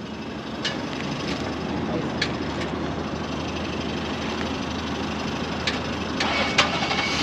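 Steady hum of idling vehicle engines in the street, with a few faint clicks.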